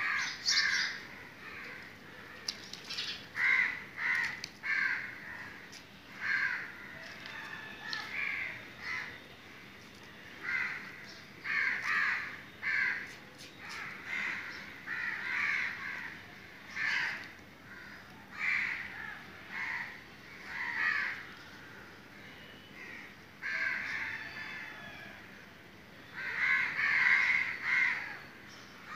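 Birds calling over and over, short calls often coming two or three in quick succession.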